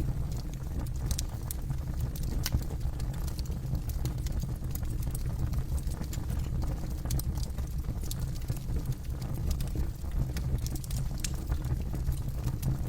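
Campfire burning with a steady low rumble of flames and frequent sharp crackles and pops from the burning wood.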